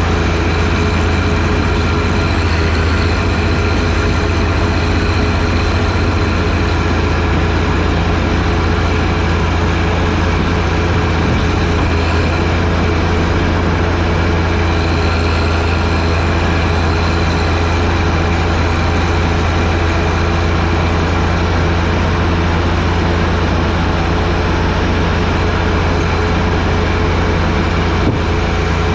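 John Deere 1025R sub-compact tractor's three-cylinder diesel engine running steadily under load while driving a 47-inch front snowblower, with a constant low drone and no change in pitch.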